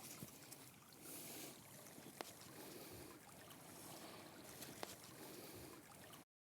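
Faint steady rush of a running stream, with a couple of small ticks.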